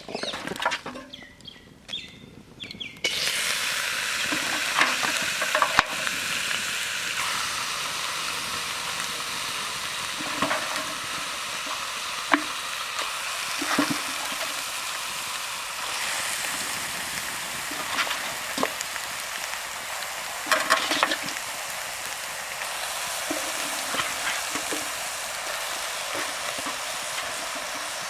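Food frying in hot oil in a cooking pot for a country chicken curry: the sizzle starts suddenly about three seconds in and then runs steadily, with occasional scrapes and clinks of a ladle stirring.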